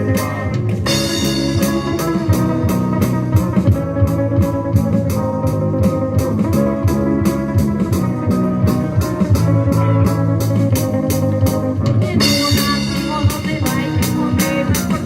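Live band playing an instrumental stretch with guitar and drum kit keeping a steady beat.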